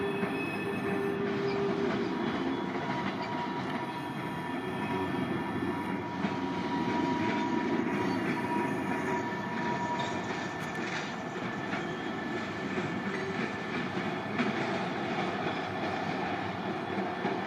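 Canadian National freight train rolling past, its wheels clicking and rumbling over the rails in a steady run, with a faint high whine that dies away about ten seconds in.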